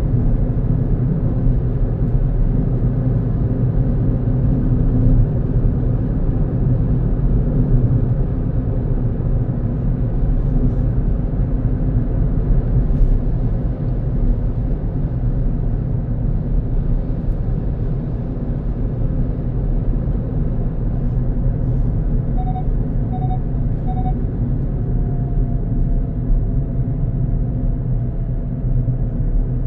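Steady low rumble of a car's engine and tyre noise while driving. About three-quarters of the way in, three short electronic beeps sound in quick succession, followed by a faint tone that slides slightly downward.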